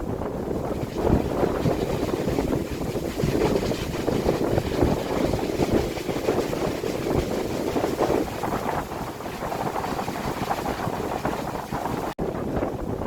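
Strong gusty wind buffeting a phone microphone: a rumbling rush that swells and eases, cutting out for an instant near the end.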